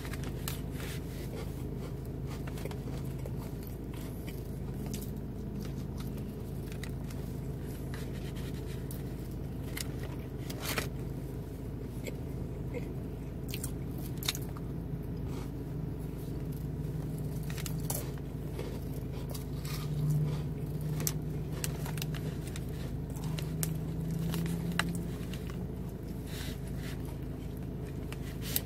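Close-up eating of crackers and cheese: chewing with scattered crunches and sharp mouth clicks, over a steady low hum.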